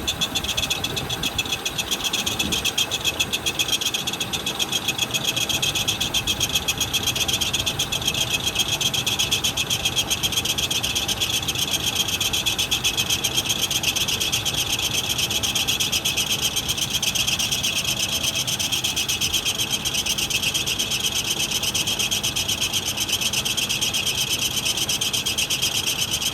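Electric-hydraulic snow plow pump motor running under strain, a loud, steady, high-pitched rapid chattering buzz, while the plow struggles to lift on fluid untouched for decades.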